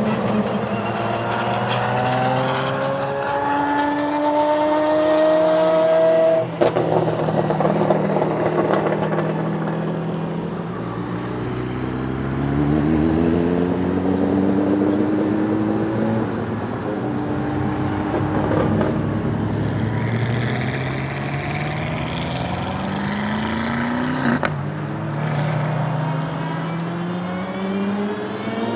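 De Tomaso P72 prototype's 6.3-litre naturally aspirated V12 pulling hard through the gears. The revs rise in long sweeps, broken by several gearshifts: a sharp one about six seconds in and another near the end.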